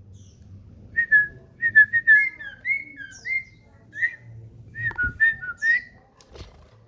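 Common iora (cipoh) singing a run of short, clear whistled notes that dip and rise in pitch, with two faint knocks near the end.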